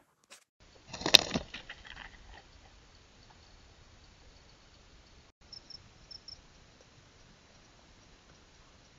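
Faint steady outdoor hiss, broken by one sharp click about a second in and a few brief high chirps in the middle.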